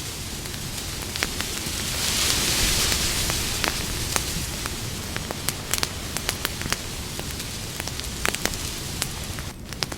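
Campfire crackling: frequent irregular sharp snaps and pops over a steady hiss, with a louder rush of hiss swelling and fading between about two and four seconds in.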